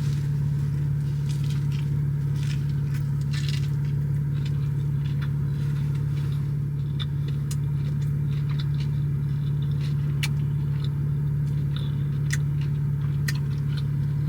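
Steady low drone of a car heard from inside the cabin, with scattered light clicks and rustles over it.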